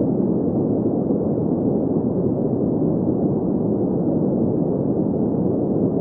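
Steady green noise: an even, unchanging hiss whose energy sits in the middle and low range, with almost nothing above about 2 kHz.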